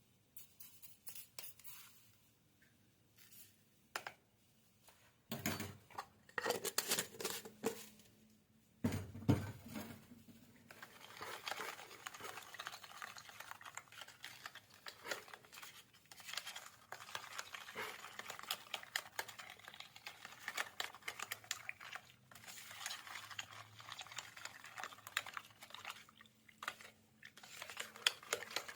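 Irregular clicks, clinks and scraping of objects being handled. They grow into a dense, continuous run of rapid scraping and rattling from about eleven seconds in.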